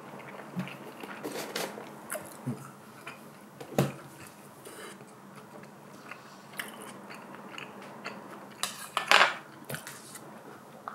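Close-miked chewing and biting of cheese-topped fried rice, with small wet clicks. A brief, louder handling noise about nine seconds in.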